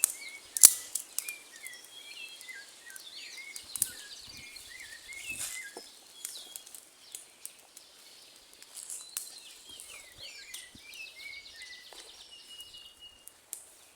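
Birds chirping, with many short rising and falling calls throughout. A few sharp cracks stand out, the loudest about a second in.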